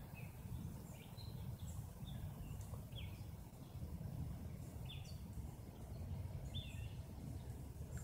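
Short, scattered bird chirps, each a quick falling note, repeated every second or two over a steady low outdoor rumble.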